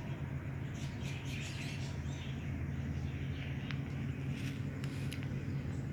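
Birds chirping with short, scattered high calls over a steady low hum.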